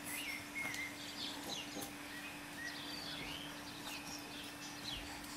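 Birds chirping in the background: scattered short chirps and brief whistled notes, some gliding, over a faint steady hum.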